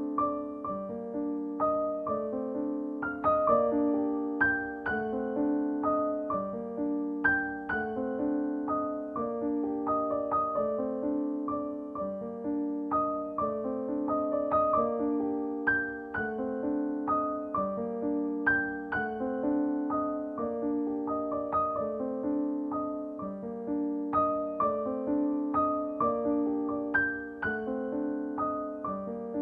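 Background piano music: a gentle, steadily repeating pattern of notes.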